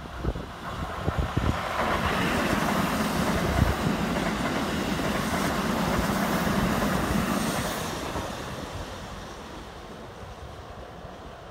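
Keikyu electric commuter train passing close by, its wheels rumbling and clattering over the rail joints. It builds up about two seconds in, stays loud for several seconds, then fades away.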